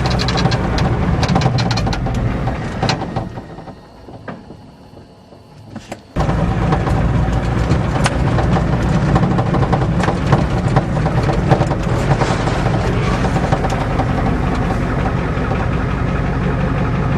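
Ford diesel truck engine running as the truck drives, with many short rattles and clicks from the bouncing cab. About three seconds in, the sound fades away to a low level, then comes back all at once about six seconds in.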